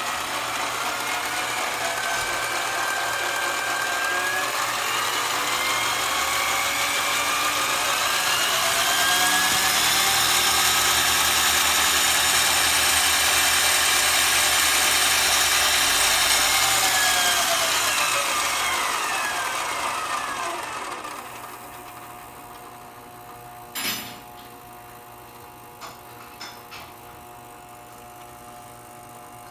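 Variable-speed metal lathe spinning a GRP RC car tire: its whine rises in pitch as it speeds up, holds steady for several seconds, then falls away as it winds down. A sharp click follows, then a few light ticks.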